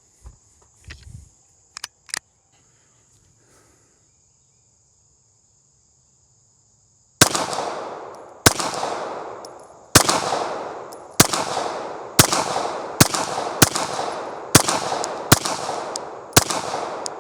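Ten pistol shots fired as a timed string, each with a long ringing echo that dies away. They start about seven seconds in and come faster toward the end. Before the string there are only a few faint clicks of handling.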